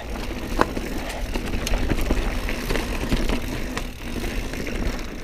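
Mountain bike riding over trail: tyre noise with frequent short clicks and rattles from the bike, over a steady low rumble.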